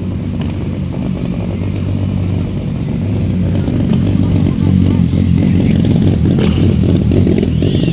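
A motor vehicle's engine running close by, a steady low hum that grows louder over several seconds and then falls away right at the end.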